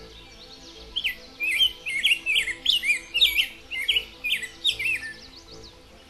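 A songbird singing a rapid, varied run of chirping notes, starting about a second in and stopping about five seconds in, over quiet background music.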